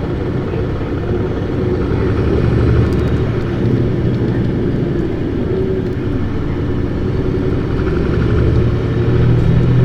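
Isuzu Erga city bus (PKG-LV234Q2) six-cylinder diesel engine pulling hard under acceleration, heard from inside the cabin. It runs louder about two to three seconds in, eases near six seconds, then climbs again toward the end.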